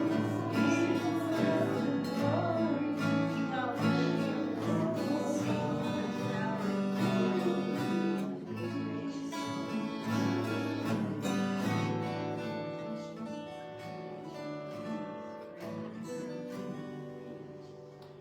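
Worship music led by strummed acoustic guitar, growing gradually softer through the second half.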